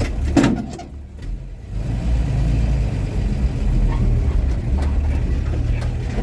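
1949 Chevy truck's engine running low and steady, heard from the cab as the truck gets under way. A short clunk comes about half a second in, the sound dips briefly, then the engine settles back into a steady run.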